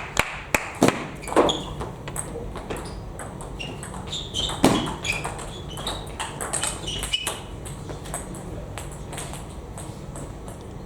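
Table tennis ball clicks from a rally: bat strikes and table bounces in quick succession for the first second and a half, with a louder knock nearly five seconds in. Short high squeaks come between about four and seven seconds in, and a few fainter clicks follow.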